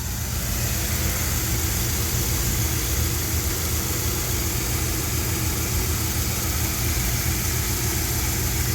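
1973 Dodge D100 pickup's engine idling steadily, a low even rumble with a constant hiss above it.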